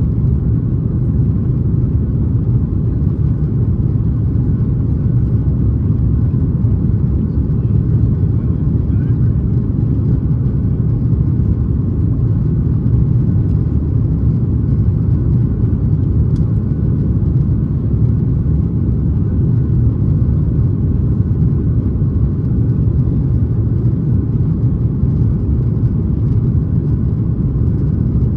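Steady low rumble inside the cabin of a Boeing 737 MAX 8 airliner, from its engines running under way.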